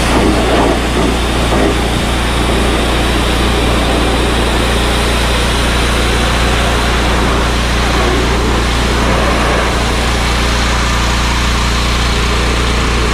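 Pressure washer running steadily, its engine humming under the hiss of the water jet spraying the RV's chassis frame.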